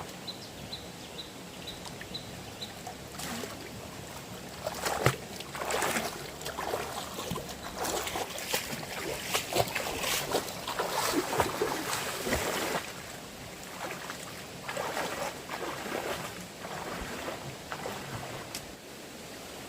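Water splashing and sloshing in irregular bursts, busiest in the middle stretch and easing off toward the end.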